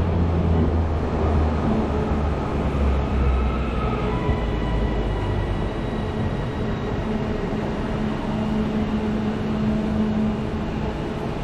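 Northern Class 331 electric multiple unit running at the platform: a steady rumble, with thin high whining tones coming in about four seconds in.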